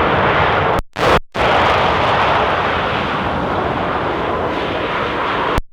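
Jet airliner engine noise, steady and loud, with brief dropouts about a second in and near the end.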